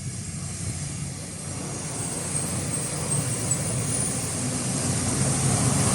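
A truck approaching on the road, its engine growing steadily louder as it nears.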